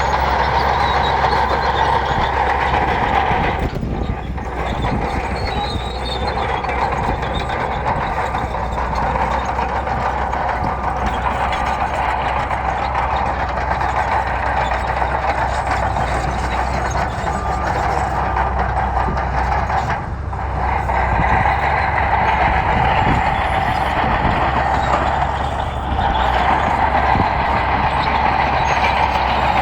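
Bulldozer's diesel engine running steadily under load, with the level dipping briefly three times.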